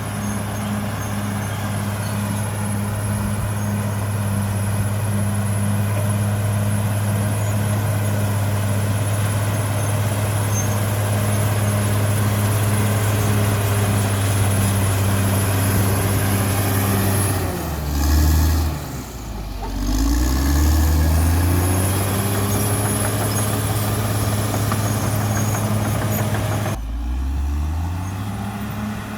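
CAT D6R XL bulldozer's diesel engine running steadily at high revs, with a thin high whine over it. About two-thirds of the way through, the engine speed drops sharply and climbs back up over a few seconds; a shorter dip and recovery comes near the end.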